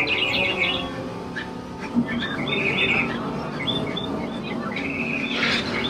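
Small birds chirping in quick repeated runs, four short bursts of high chirps, over a low background murmur.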